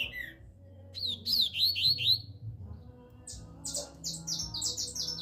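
A songbird singing: a run of about five quick, down-slurred whistled notes, then after a short pause a faster, higher series of clipped notes.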